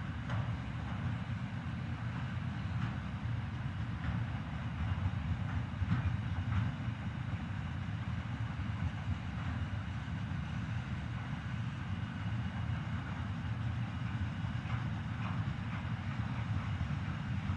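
Freight train wagons rolling past: a steady low rumble of wheels on rail with scattered clicks.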